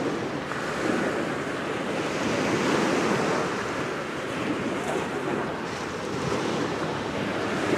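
Wind rushing over the microphone along with waves washing on the shore, swelling and easing every second or two.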